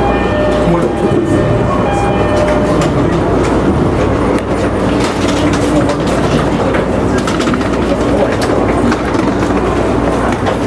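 JR Nikko Line local electric train running along the track, heard from on board: steady running noise with clicks of the wheels over the rails. A few steady tones fade out in the first two seconds.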